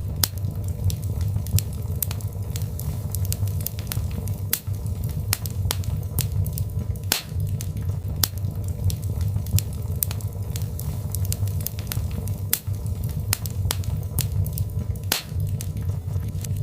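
Birchwood fire burning in a fireplace: a steady low rumble of flames with frequent sharp crackles and pops of the burning logs.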